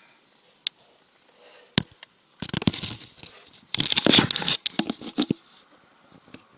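Handling noises: a few sharp clicks and knocks, then two loud bursts of crinkling, rustling noise about a second each, and more clicks after them.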